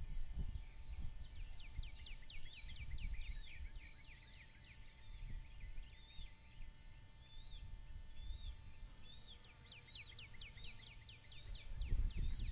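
A bird sings the same phrase twice: a high buzzy trill, then a quick run of sharp downslurred notes. Low wind rumble on the microphone runs underneath and grows louder near the end.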